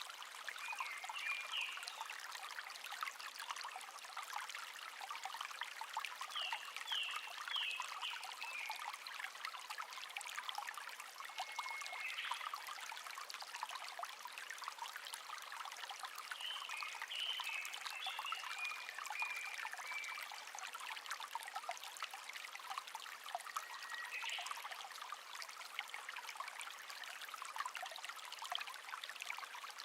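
A shallow stream (せせらぎ) trickling and babbling steadily, with small songbirds singing short chirping phrases over it every few seconds.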